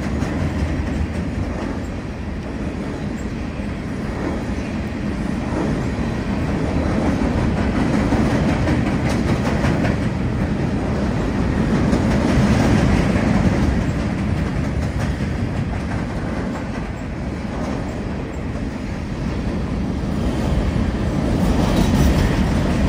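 Freight cars rolling across a steel truss railroad bridge: a steady rumble with a continual clatter of wheels on the rails, swelling a little about halfway through and again near the end.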